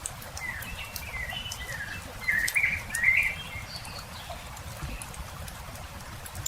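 A campfire crackling with scattered sharp pops, under a bird's chirping call that runs from about half a second to three and a half seconds in and is loudest around the middle.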